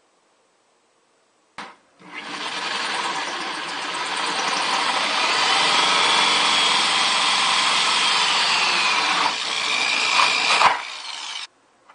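Power drill cutting a hole through the wall of a plastic bucket, starting with a click and running for about nine seconds with a wavering high ring, then cutting off suddenly near the end.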